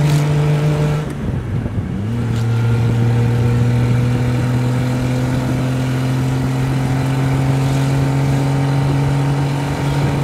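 The 2-litre straight-six Triumph Vitesse engine of an open kit car under way. Its note breaks off briefly about a second in, comes back with a quick rise in pitch, then runs steadily with its pitch climbing slowly as the car accelerates.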